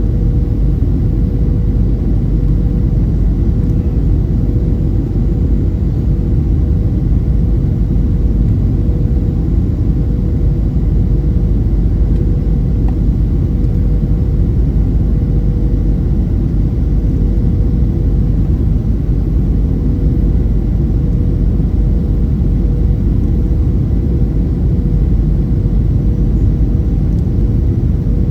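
Steady cabin noise inside a Boeing 737-800: an even, low engine-and-airflow drone with a faint steady hum above it, unchanging throughout.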